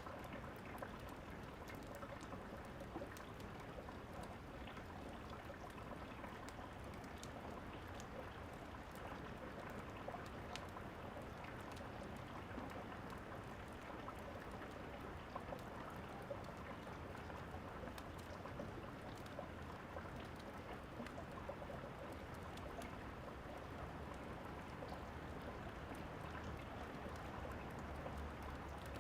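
Steady rain falling, with scattered small crackles and pops of a fireplace mixed in.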